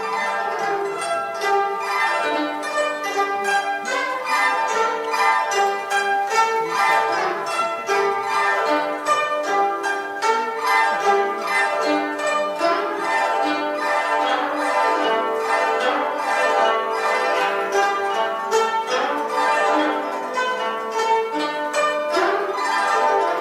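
Ensemble of guzhengs (Chinese plucked zithers) playing a lively melody together in many quick plucked notes, with interweaving parts.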